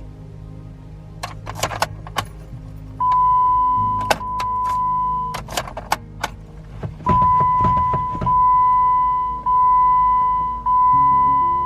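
Jeep's dashboard warning chime: a steady high tone about a second long, once about three seconds in, then repeating back to back from about seven seconds on. Sharp clicks and a jangle of keys between the chimes, over soft background music.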